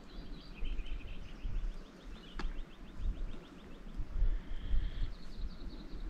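Small birds singing: a rapid, even trill of high notes through the first half, then shorter high phrases, over a low rumble of wind on the microphone. One sharp click a little past two seconds in.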